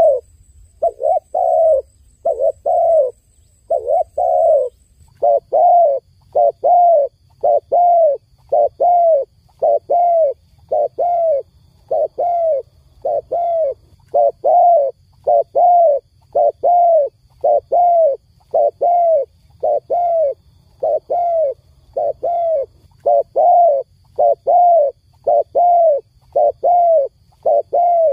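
A dove cooing over and over: short, low, identical coos at about two a second, often in pairs, running without a break over a faint steady hum.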